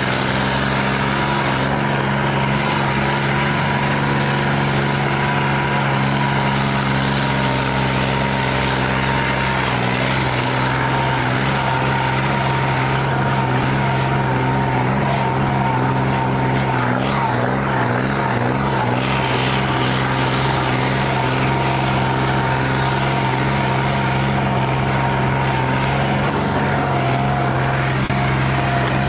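Tractor engine running steadily, with a thin high whine above it that drops in pitch near the end.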